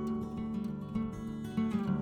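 Outro music: acoustic guitar being strummed and plucked.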